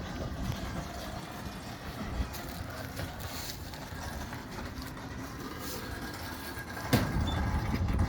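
Craftsman garage door opener driving the door along its tracks with a steady rumble and rattle. About seven seconds in a loud thud comes as the door meets the floor, and the running sound stops about a second later.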